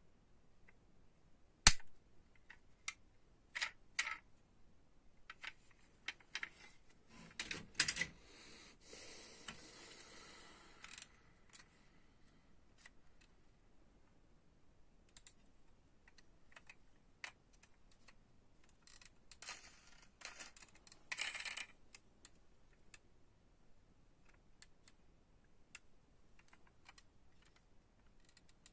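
Diecast toy cars being handled: scattered sharp clicks and taps, a rustle lasting about two seconds about a third of the way in, and a cluster of clicks and scrapes about two-thirds of the way through.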